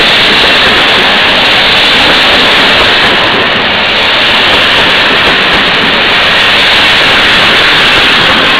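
Passenger train coaches rolling past close by: a loud, steady rushing rumble of wheels running on the rails.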